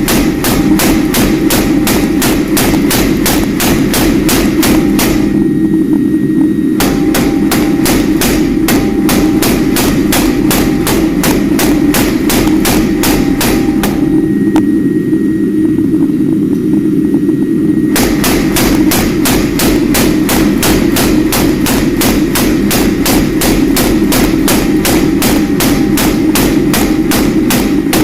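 Steady, even hammer blows on steel, about three a second, with two short pauses, over a continuous low drone.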